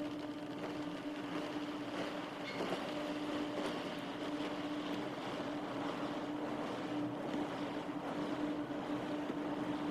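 Automatic car wash running: a steady rushing wash noise with a constant low machine hum.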